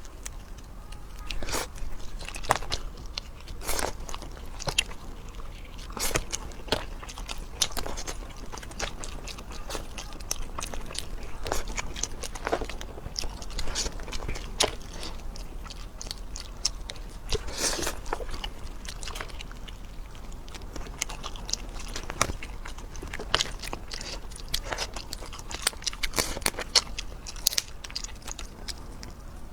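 Close-miked eating: a person biting and chewing food, with irregular crisp crunches and wet clicks of the mouth.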